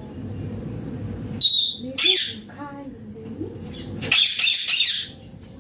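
Young Indian ringneck parakeet squawking. A sharp short call comes about a second and a half in, with more calls just after, and a longer harsh screech near the end.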